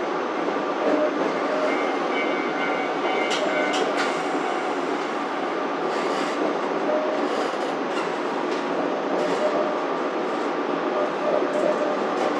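Narrow-gauge (762 mm) train car running, heard from inside the car: a steady rumble of wheels on rail with occasional clicks over the track.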